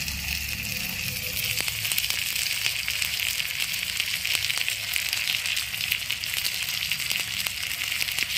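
Shallots and tomatoes sizzling in hot oil in a miniature pot over a small wood fire, stirred with a tiny spatula. It is a steady hiss with light scattered crackles.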